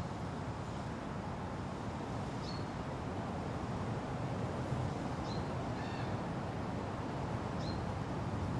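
Steady wind rumbling through a forest, with a bird repeating a short high chirp about every two and a half seconds and a different, lower call from another bird about six seconds in.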